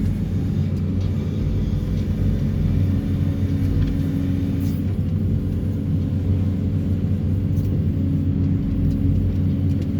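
Excavator-mounted Daedong DTD350T vibro hammer and the excavator's diesel engine running under load, a steady low drone, while extracting steel sheet piles.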